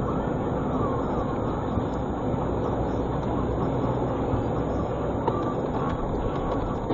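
Steady car engine and road noise heard from inside the cabin through a dashcam, with a few faint clicks.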